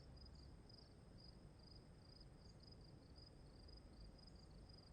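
Faint insect chirping, likely crickets: a thin high trill pulsing evenly about three to four times a second over a low background rumble.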